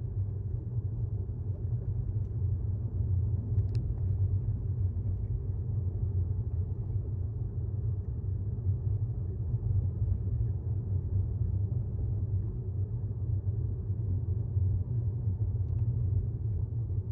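Steady low road and tyre rumble inside the cabin of a 2018 Tesla Model S 75D, an electric car with no engine note, cruising at about 25 mph.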